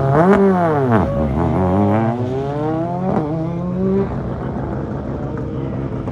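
Rally car launching off the start line and accelerating hard through the gears. The engine's pitch climbs and drops at each shift, about once a second over the first four seconds, then fades to a steadier, quieter engine sound.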